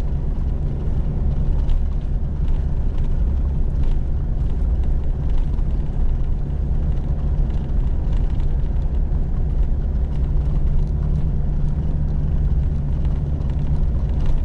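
A 4x4's engine pulling steadily up a steep climb in a low gear, a constant low hum under the noise of the tyres on the paved road, with a few faint clicks.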